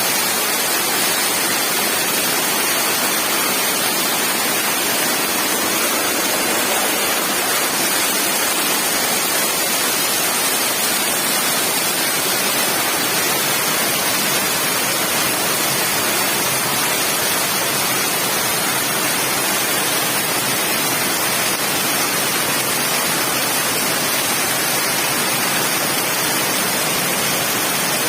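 Swollen floodwater of an overflowing river rushing past, a loud steady noise with no breaks.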